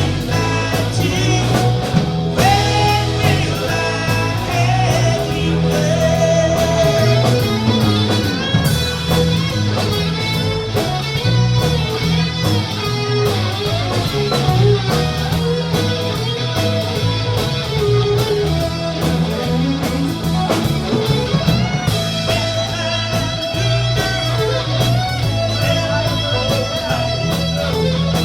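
Live rock band music: an electric guitar plays a lead with bending notes over bass guitar and drums.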